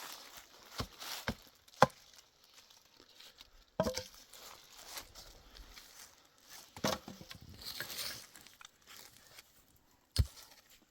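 Sharp knocks at irregular intervals, a few seconds apart at most, with faint rustling between them.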